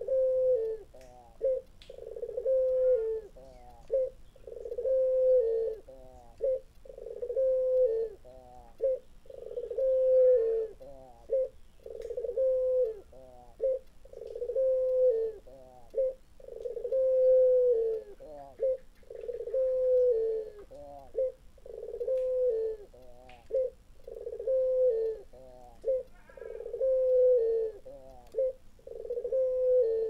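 Burung puter, a collared turtle dove, cooing over and over. Each call is a long held coo followed by a quick run of short rolling notes, repeated about every two seconds, and the call sounds like a kuntilanak ghost.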